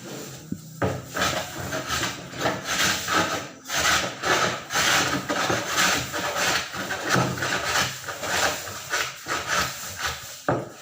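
Rhythmic rasping strokes of something rubbed or scraped back and forth, about two a second.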